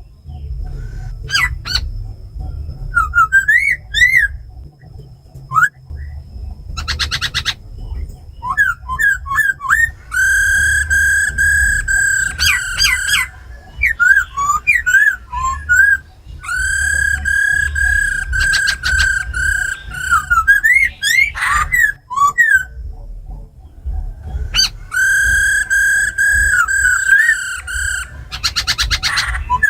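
Laughingthrushes (khướu) singing: long held whistled notes of two to three seconds each, separated by quick rising and falling slurred phrases. Twice, about seven seconds in and near the end, comes a short rapid rattle, the female's churring 'ro khẹt' call.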